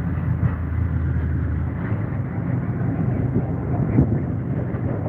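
Steady low rumble of a vehicle running, with road or running noise.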